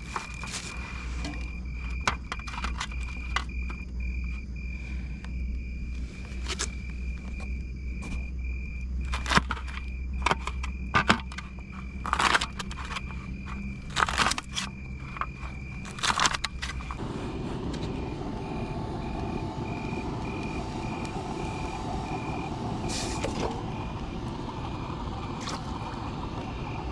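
A vehicle's engine running with a steady high-pitched beep and a series of sharp knocks and clicks. About seventeen seconds in, the low engine note stops, the beep turns into short pulses and a steadier hiss takes over.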